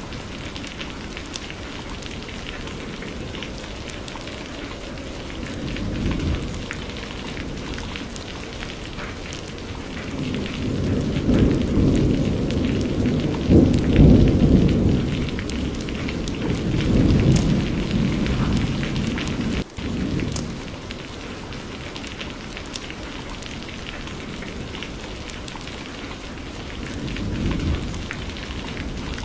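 Steady rain falling, with rolling thunder: a brief low rumble about six seconds in, a long rumble building through the middle that is loudest around halfway and fades off a few seconds later, and another short rumble near the end.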